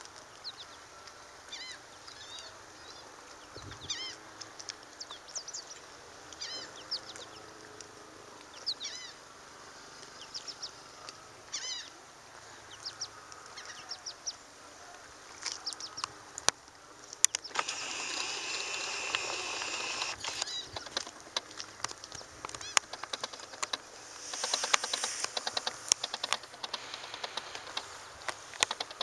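Birds calling outdoors: short arched calls, many in pairs, every couple of seconds through the first half. Later comes a stretch of hiss with many scattered sharp clicks.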